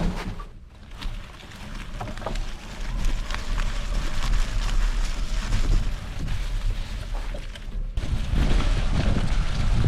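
Wind buffeting the camera microphone on a moving e-bike, a steady low rumble, with scattered small clicks and crunches from the ride over the forest trail. The rumble grows fuller about eight seconds in.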